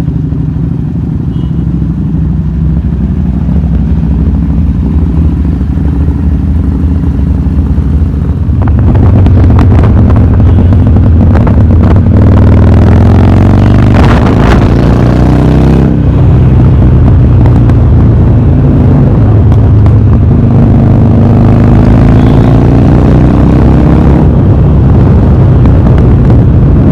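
Harley-Davidson V-twin motorcycle engine with a loud aftermarket exhaust, idling steadily at first. From about nine seconds in it gets louder and is revved up and down several times.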